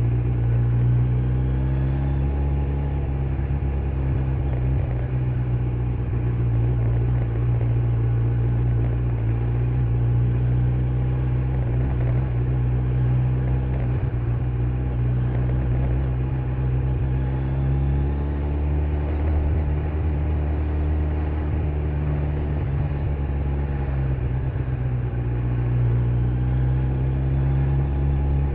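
Kawasaki Z900's inline-four engine running under way, with stock exhaust, its note dipping and rising a few times as the throttle changes, over steady road and wind noise.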